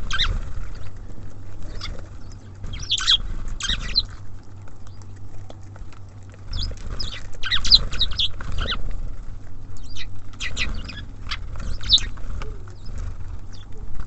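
Small birds at a feeder chirping and calling in short clusters of high notes, over a steady low rumble.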